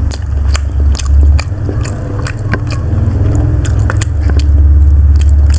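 A person chewing a mouthful of siomay close to the microphone: many short wet mouth clicks and smacks, over a steady low rumble.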